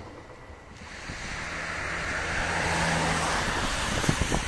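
An electric multiple-unit train approaching on the tracks, its running noise swelling over a few seconds with a steady low hum, a few knocks near the end, and wind rumbling on the microphone.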